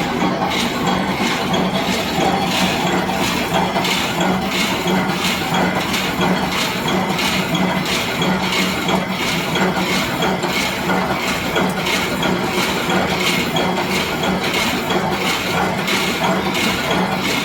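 Automatic multi-point resistance welding machine for thin-wire roll mesh running, with regular metallic clinking about twice a second over a steady hum.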